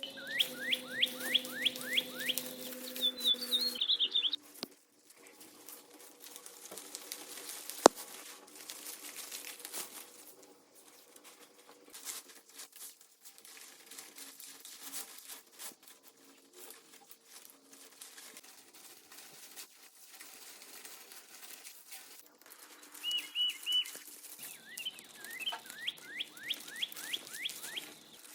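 A bird singing twice: rapid runs of downward-sweeping whistled notes with a short high trill, near the start and again near the end. In between, faint clicks and rustling, with one sharp click about eight seconds in.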